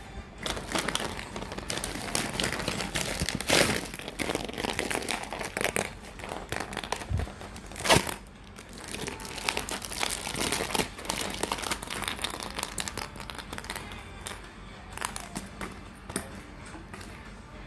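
Plastic blind-bag packets crinkling and rustling as they are handled and opened, in irregular bursts with sharp louder crackles about three and a half and eight seconds in, growing sparser in the last few seconds.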